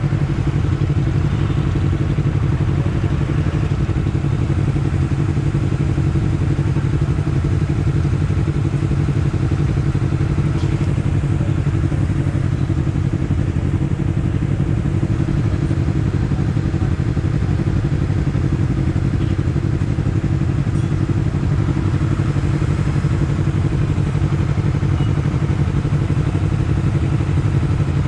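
Honda CBR250RR sportbike engine and exhaust running at a steady, unchanging engine speed.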